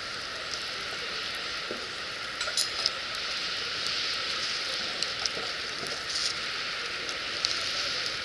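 Wood campfire crackling: scattered sharp pops over a steady hiss, with a small cluster of pops a little under three seconds in.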